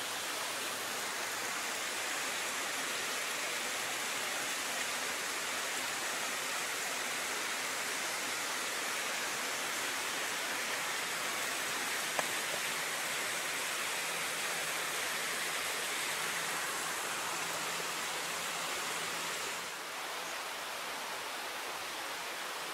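Steady rushing outdoor noise like running water, with no tone or rhythm to it. It eases a little about twenty seconds in.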